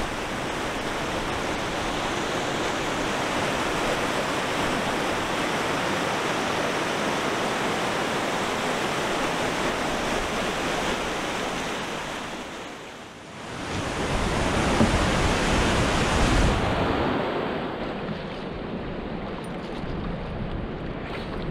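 Steady rush of river water running fast over a rocky shoal. About thirteen seconds in it dips briefly, then comes back louder and deeper for a few seconds before settling again.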